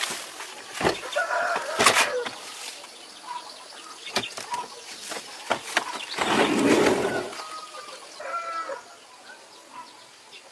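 Short bird calls, early and again late, among scattered sharp knocks and clicks, with a loud second-long noisy burst about six seconds in.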